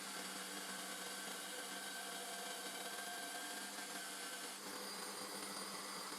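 Homemade belt grinder running steadily at speed, a constant motor hum with a hiss of the abrasive belt.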